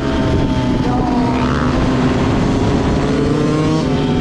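A vehicle engine running at a fairly steady speed, its pitch shifting slightly up and down.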